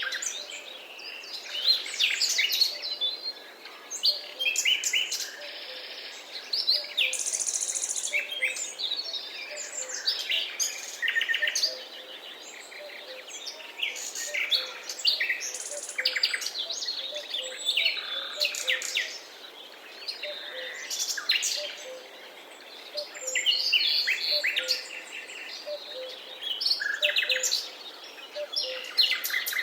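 Forest ambience: several birds singing and chirping at once, busy overlapping calls and trills, over a faint steady hiss.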